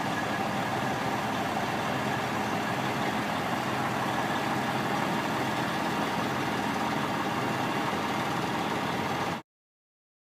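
Freightliner semi truck's diesel engine idling steadily, then cutting off suddenly near the end.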